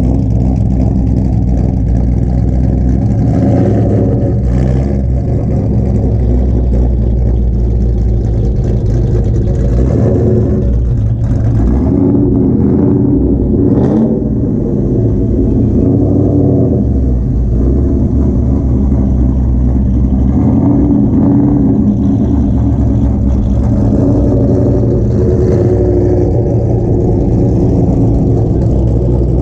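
Car engines and exhausts running loudly, with revs rising and falling now and then.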